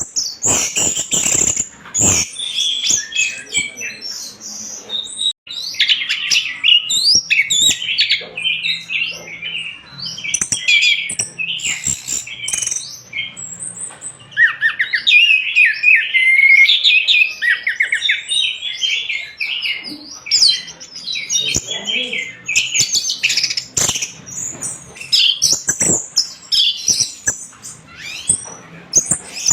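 Orange-headed thrush singing a fast, varied song of rapid chirps, trills and whistles, with only brief pauses, in full vigorous song.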